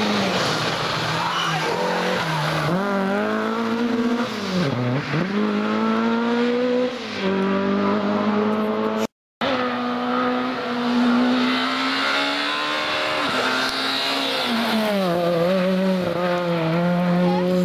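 Rally car engine at high revs, pitch dipping and climbing again and again as the driver lifts, shifts and gets back on the throttle. The sound cuts out briefly just past the midpoint, then another stretch of hard-revving engine follows.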